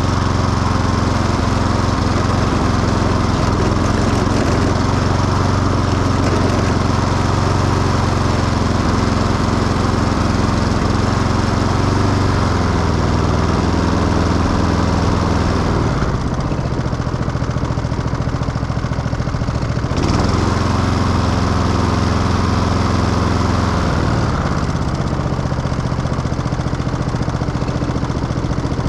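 Stiga Euro 50SH self-propelled petrol lawn mower running, its engine note shifting several times and dropping to a lower, duller sound for a few seconds about halfway through before picking back up.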